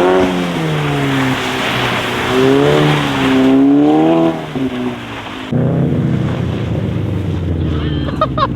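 Subaru flat-four engine with an aftermarket cat-back exhaust, revving up and down twice in pitch over a steady rushing noise. About five and a half seconds in, the sound switches abruptly to a steadier, lower engine drone.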